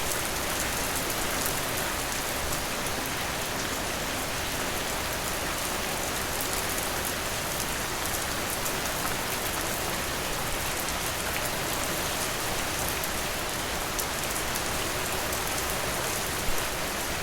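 Steady rain falling against a window: an even hiss dotted with fine drop ticks, with one slightly louder tap near the end.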